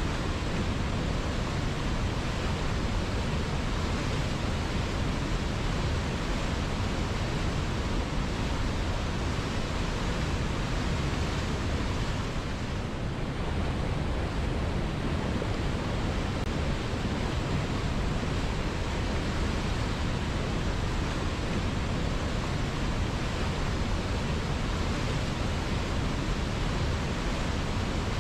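River water flowing steadily: a continuous rushing noise, easing slightly for a moment about halfway through.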